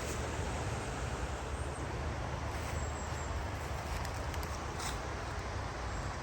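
Steady low rumble with a constant hiss, like a vehicle on the move, and a few faint ticks.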